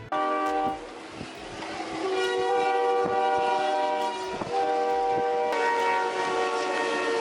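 Train horn sounding in long, steady blasts. Its chord of notes shifts about two seconds in and again about five and a half seconds in, with a few sharp knocks underneath.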